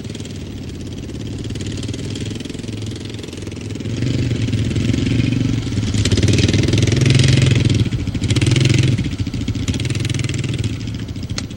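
A motor vehicle's engine running, growing louder about four seconds in and easing off again near the end.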